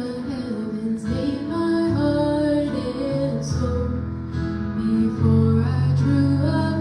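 Live worship band playing an instrumental passage of a song, with guitar and sustained chords over changing bass notes.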